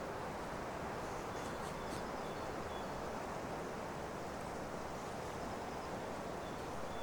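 Steady outdoor forest ambience: an even rushing noise with a few faint, brief high chirps now and then.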